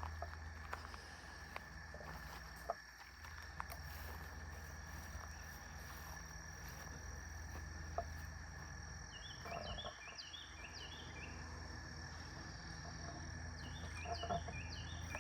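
Insects, crickets among them, droning steadily on two high notes, with a few faint clicks. Twice, about nine and fourteen seconds in, a run of short, quick, falling chirps.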